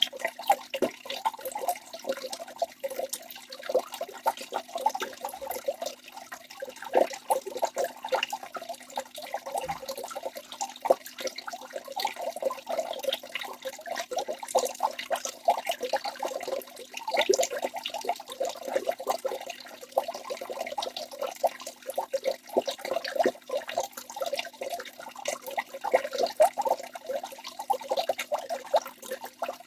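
Waterfall: water pouring and splashing steadily, made up of many small splashes and drips, with little deep rumble.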